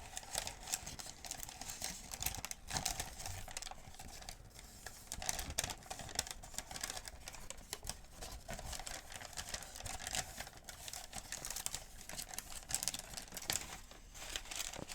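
A paper medication guide being handled, a dense run of paper crinkles and rustles.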